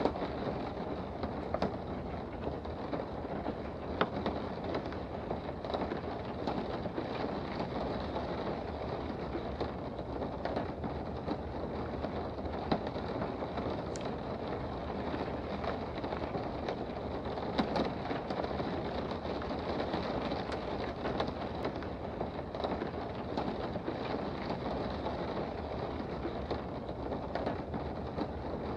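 Steady rain heard from indoors: an even hiss with scattered sharper ticks of drops.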